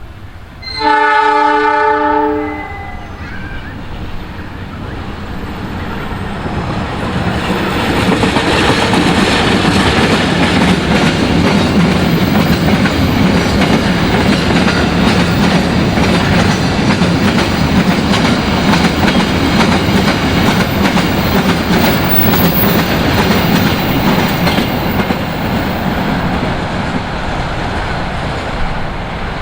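A train horn gives one blast of about a second and a half, then a train passes close by at speed, its wheels clattering over the rail joints. The passing noise builds, stays loud for a long stretch and eases off near the end.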